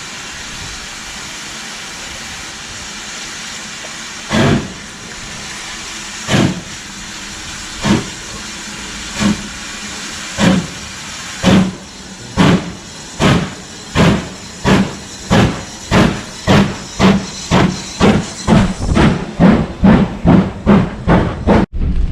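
Steam locomotive chuffing over a steady hiss: the exhaust beats start slowly about four seconds in and quicken steadily to about three a second, as when a steam engine picks up speed. The sound cuts off abruptly just before the end.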